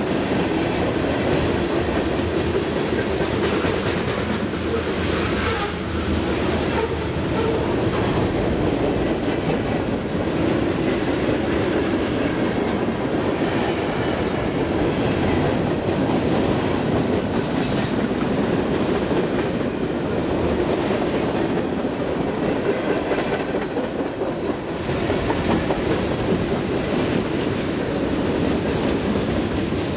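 A train rolling past at close range, its cars' wheels running steadily over the rails without a break.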